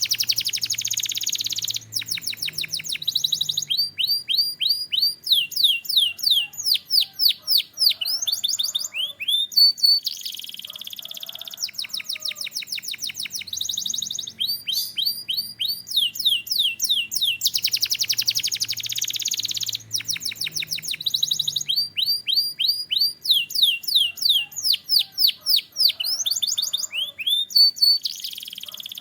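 Canary singing a continuous song of fast repeated sweeping notes and trills, changing every second or two to a new phrase, with buzzy rolls between.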